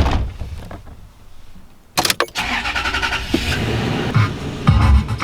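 A car door shuts, and about two seconds later the car's engine cranks briefly, catches and runs steadily. Music with a heavy beat comes in near the end.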